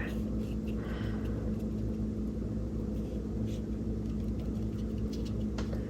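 Steady low background hum made of several fixed tones, with no speech.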